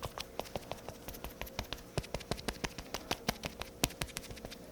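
Cushion foundation puff patting against the face: a quick, irregular run of soft light taps.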